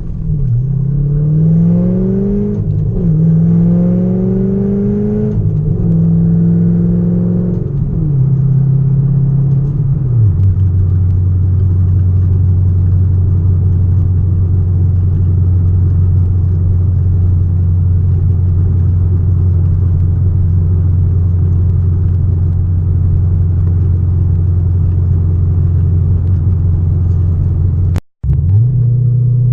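Straight-piped Corvette V8 exhaust pulling hard, its pitch rising twice through gear changes in the first few seconds. It then steps down and settles into a steady low drone at cruising speed. The sound cuts out for an instant near the end.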